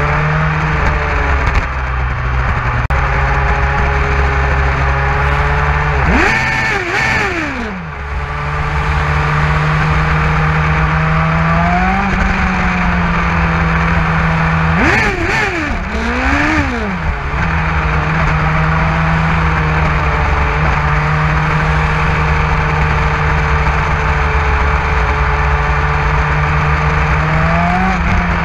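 Motorcycle engine running at steady cruising revs, with brief small rises in revs about twelve seconds in and near the end. Twice, about six and fifteen seconds in, another vehicle sweeps past with its pitch falling.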